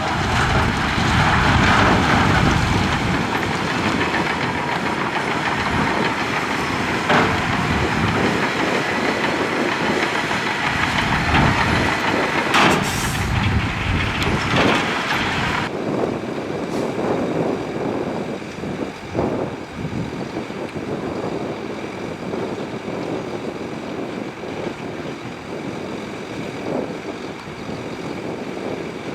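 Heavy earthmoving machinery at work: a diesel engine running under load with rattling and clanking of rock and steel. The sound changes abruptly about halfway through, the hiss and rattle dropping away and leaving a lower engine rumble.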